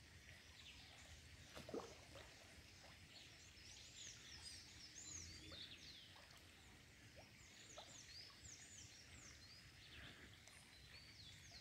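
Near silence with birds chirping faintly: many short, arching high chirps, and one soft knock about two seconds in.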